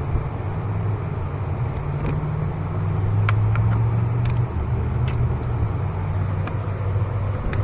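A steady low engine hum from a vehicle running nearby, shifting slightly in pitch partway through, with a few light, sharp clicks scattered over it.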